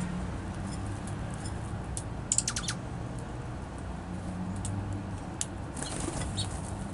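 Small songbirds at a feeder: a quick run of four or five sharp ticks or wing flutters a little over two seconds in, with a few faint high chirps, over a steady low hum.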